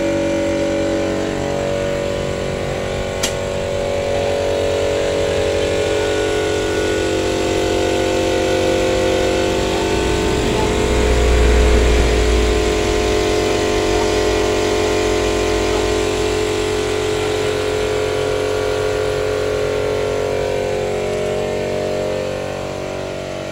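Horizontal single-cylinder diesel engine of a công nông farm cart running steadily at idle, with a heavier low rumble for a couple of seconds around the middle.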